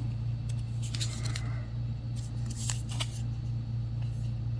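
Light scattered clicks and rustles of tiny plastic miniature-kit pieces being picked up and handled, over a steady low hum.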